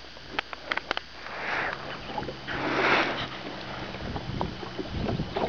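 Two breathy sniffs or exhales close to the microphone, about a second and a half apart, with scattered small clicks and knocks and a faint low hum.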